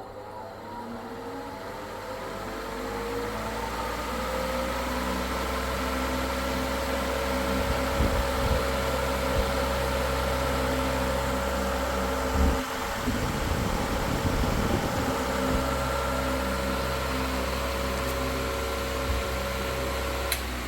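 Electric wall or exhaust fan switched on, its motor hum rising in pitch and level over the first few seconds as it spins up, then running steadily. A few low thumps come in the middle, and a click near the end as the hum stops.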